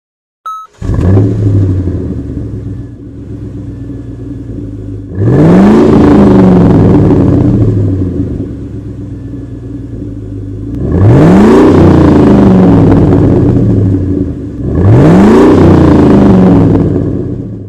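A short electronic beep, then a car engine running and revved hard three times. Each rev rises quickly in pitch and falls back over a second or two.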